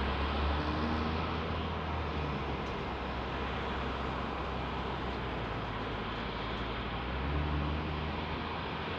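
Jet airliner engine noise, a steady rumble and hiss with the low rumble swelling near the start and again near the end.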